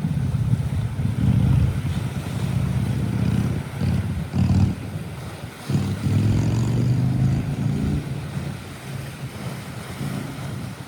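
Sea waves washing in, with wind buffeting the microphone in gusts that make a loud, uneven rumble.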